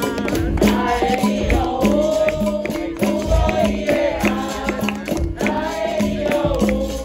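Live capoeira roda music: berimbau with its caxixi rattle and a pandeiro keeping a repeating rhythm, under voices singing.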